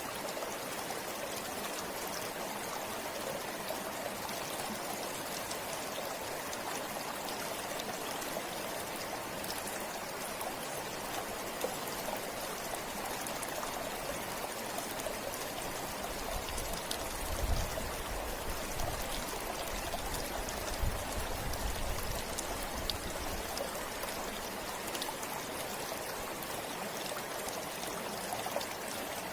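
A river flowing steadily over rocks, a constant rushing with faint scattered splashes. A low rumble rises under it for several seconds past the middle.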